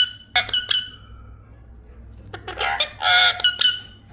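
Ringneck parrot calling: three short, sharp chirps in quick succession just under a second in, then a longer, harsh squawk around three seconds in.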